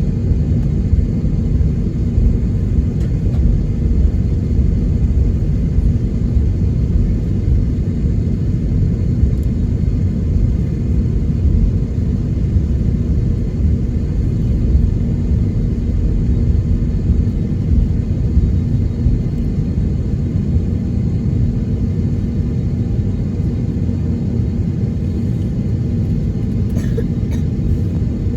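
Cabin noise of an Airbus A321neo taxiing: a steady low rumble from the engines and the aircraft rolling, with a few faint ticks near the end.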